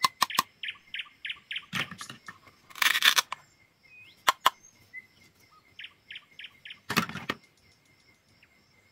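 Knife cutting through crisp food: sharp clicks and three longer crunching cuts, with birds chirping behind in quick runs of short notes, about four a second.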